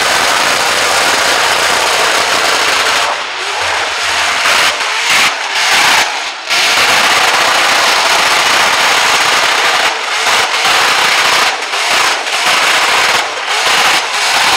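Supercharged, injected LS V8 in a Holden Commodore ute revving hard through a burnout, held high with several brief throttle lifts that cut the sound for a moment. The rear tyre is gone and the bare rim grinds on the concrete, throwing sparks.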